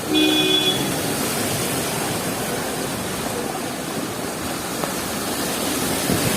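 Heavy rain falling steadily, a continuous dense hiss. A short horn-like tone sounds once right at the start.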